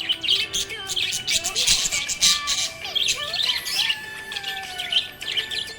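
A flock of budgerigars chirping and warbling in continuous busy chatter: quick sharp chirps mixed with short sliding whistles.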